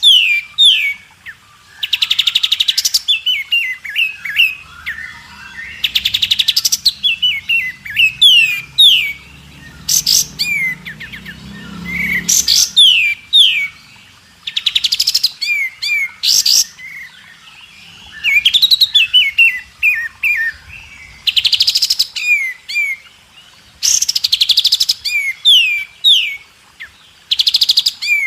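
White-rumped shama (murai batu) singing a long varied song: rapid, dense trills about a second long every two to three seconds, alternating with short, clear, falling whistles.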